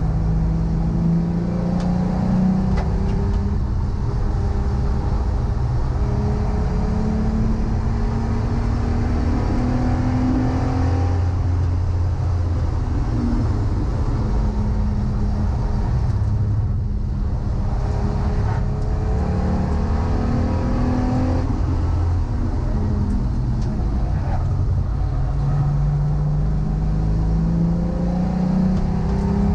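Volkswagen Corrado's VR6 narrow-angle V6 race engine under hard acceleration on track, its pitch climbing through the revs and dropping back at each gear change several times over, with a constant low rumble of road and wind noise beneath.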